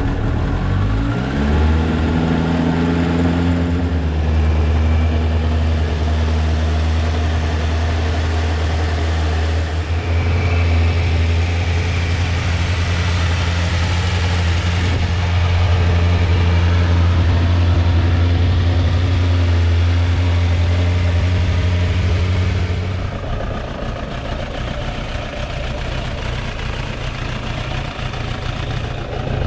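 Suzuki GSF 1200 Bandit S inline-four engine catching and rising in pitch over the first second or two, then idling steadily. About two-thirds of the way through it gets somewhat quieter and its low note drops away.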